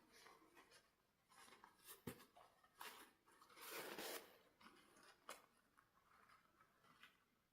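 Faint handling noises of small objects: a few light clicks and a brief rustle about halfway through, with near silence between.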